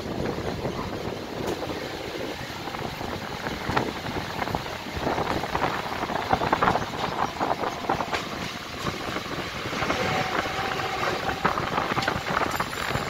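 Mumbai suburban electric local train running at speed, heard from an open doorway: a steady rumble of wheels on rails with constant irregular rattling and clatter.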